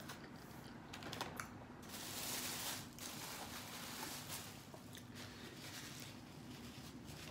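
Close-miked eating sounds: chewing with wet mouth clicks and smacks at irregular intervals. A louder, brief hissing rush comes about two seconds in.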